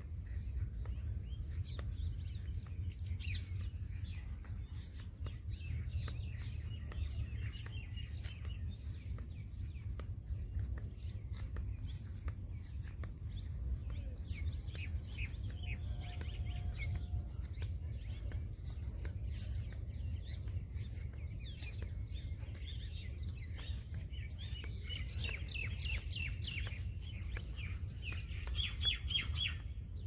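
Small birds chirping in scattered bursts of quick, high notes, busiest near the end, over a steady low rumble.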